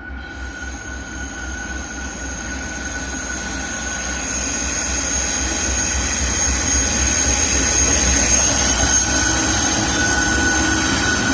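Norfolk Southern diesel locomotives hauling a freight train, growing steadily louder as they approach, with a low pulsing engine rumble and a steady high-pitched squeal of wheels against the rails.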